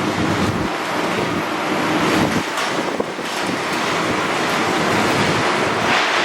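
Heavy demolition machinery working, a steady, dense mechanical noise without pause.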